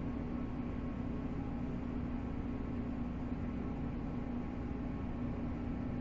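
Interior noise of a 485-series electric express train: a steady low hum over an even rumble, with no change in pitch.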